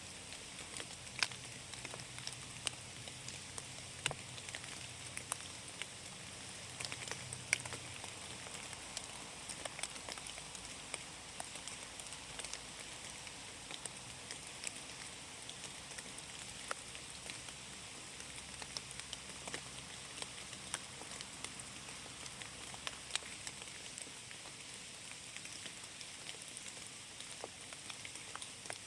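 Light rain falling steadily: a constant soft hiss with many separate drops ticking at irregular moments.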